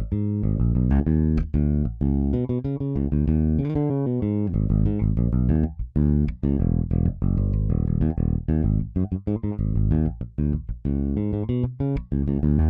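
Sampled electric bass from the EZBass software instrument playing a busy funk bass line: short plucked notes with quick rests and staccato accents.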